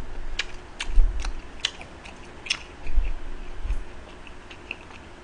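Close-miked eating: a person chewing, with several sharp clicks in the first half and a few dull low thumps.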